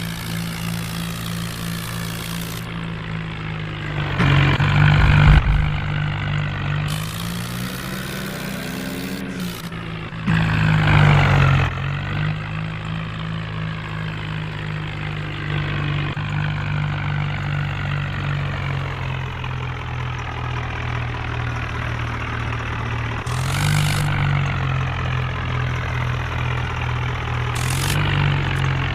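Diesel engine of a JCB backhoe loader running steadily while loading, revving up in short bursts about four seconds in, again near eleven seconds, and once more about two-thirds of the way through.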